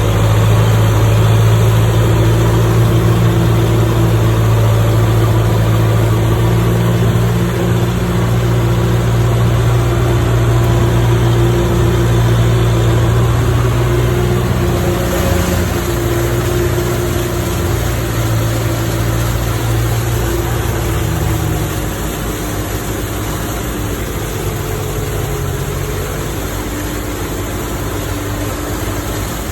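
Kubota tractor's diesel engine running at a steady speed, a loud low drone that grows somewhat quieter in the last several seconds.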